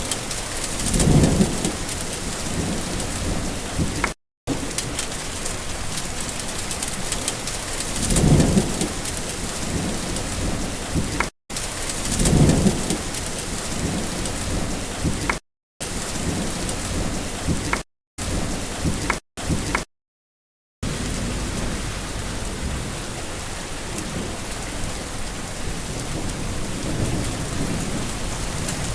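Steady heavy rain falling, with three low rolls of thunder swelling up: about a second in, about eight seconds in and about twelve seconds in. The sound cuts out to dead silence several times for a fraction of a second, mid-way through.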